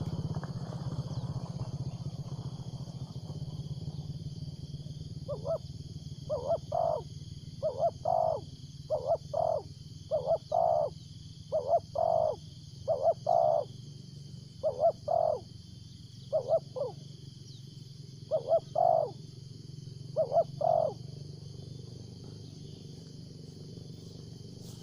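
Spotted dove cooing over and over in short, mostly paired notes, about eleven phrases starting some five seconds in, against a steady high-pitched insect-like drone. A rushing noise fades out over the first few seconds.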